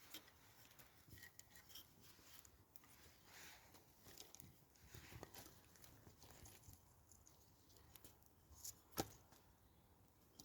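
Very quiet, faint scattered clicks and crackles of firewood as the campfire is laid and lit over a firelighter, with one sharper snap about nine seconds in.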